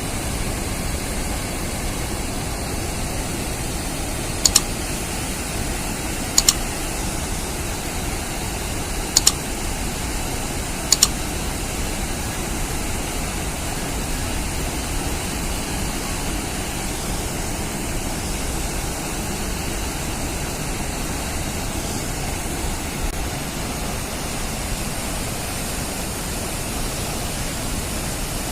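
Steady rushing of floodwater, a continuous even roar, with four sharp clicks in the first half.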